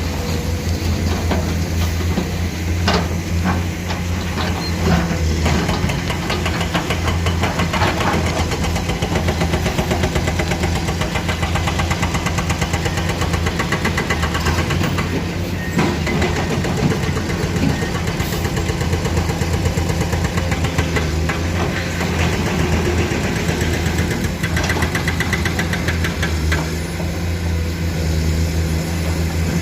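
Diesel engines of hydraulic excavators running steadily with a fast, even throb, with a few short clanks early on and again about halfway through.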